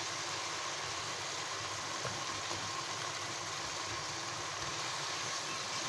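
Chicken, tomato and fenugreek masala sizzling steadily in a nonstick wok as it is stirred with a spatula, with a few faint scrapes.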